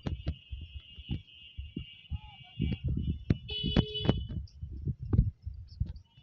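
Irregular low thumps of a handheld phone microphone being knocked and handled while carried, with a thin, high steady tone in the first half and a brighter high chirp about halfway through.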